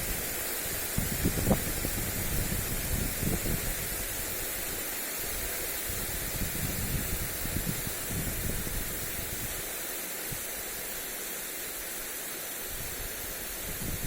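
Garden sprinkler spraying water onto a lawn, a steady hiss of droplets. Wind buffets the microphone in irregular low rumbling gusts that ease off for a few seconds near the end.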